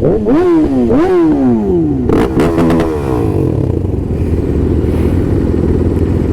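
Sportbike engine revving: the pitch climbs and falls twice in the first second or so, then a longer fall, and another short rev about two and a half seconds in. After that comes a steady low rumble.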